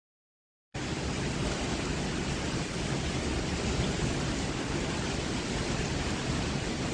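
Heavy storm rain and wind, a steady dense rushing noise that cuts in suddenly after a moment of dead silence.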